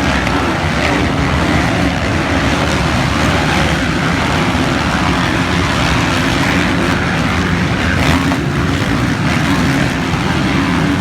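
Motocross motorcycle engines running, steady and loud.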